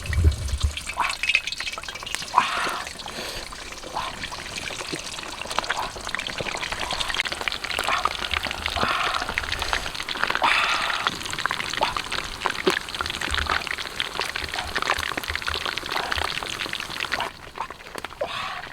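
Wet handling sounds: water pouring and sloshing, with many small clicks and crackles throughout and a few low thumps, the loudest about the first second.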